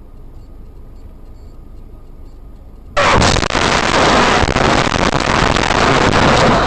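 Low road rumble inside a moving car, then about three seconds in a sudden, very loud, harsh crash noise that carries on for several seconds, overloading the dash-cam's microphone.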